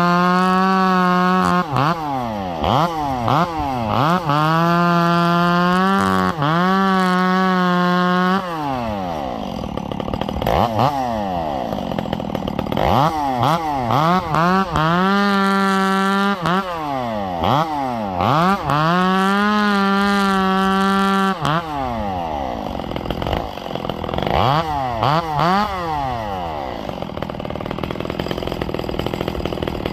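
Ported Echo CS-670 two-stroke chainsaw revving hard: held at full throttle for a second or three at a time, with quick throttle blips and falling revs in between. Over the last few seconds it runs rougher and quieter at lower revs.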